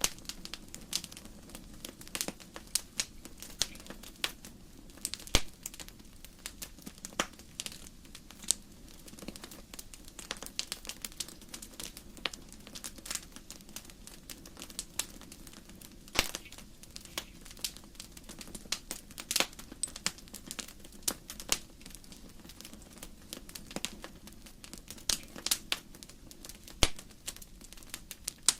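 Wood fire crackling, with irregular sharp pops and snaps from the burning logs over a low steady hiss of the flames.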